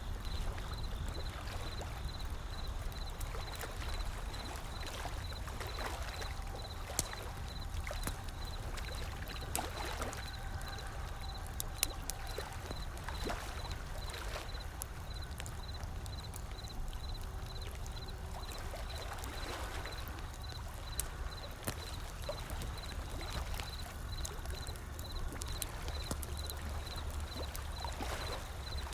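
A wood fire crackling, with scattered sharp pops, over the steady low rumble and soft swells of ocean waves rolling in.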